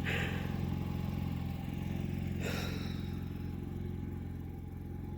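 Generator engine running steadily with an even hum. Two brief hissing noises come at the start and about two and a half seconds in.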